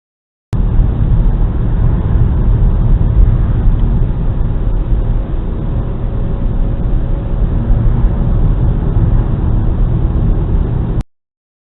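Steady low rumble of road and engine noise from a car driving, recorded by a dashcam, dull with no highs; it starts abruptly about half a second in and cuts off abruptly near the end.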